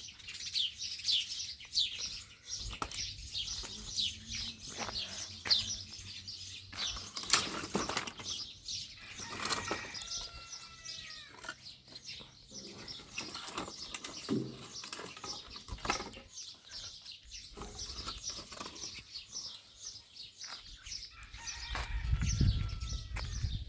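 Small birds chirping continually in quick, repeated falling notes, with scattered knocks and clicks and a low rumble near the end.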